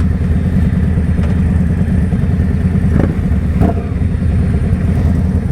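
Indian Scout Bobber's V-twin engine running steadily at cruising speed, heard from the rider's own bike.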